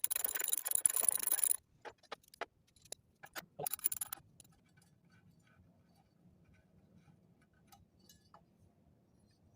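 Ratchet wrench clicking rapidly while loosening cylinder-head bolts on a small mower engine, stopping about a second and a half in; a few separate metal clicks and clinks follow, then it goes nearly quiet.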